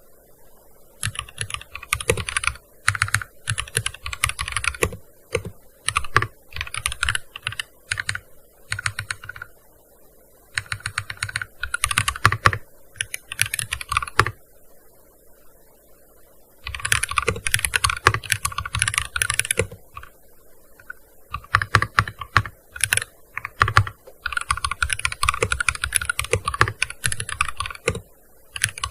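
Typing on a gaming keyboard: fast runs of key clicks in bursts of a few seconds, with short pauses between them.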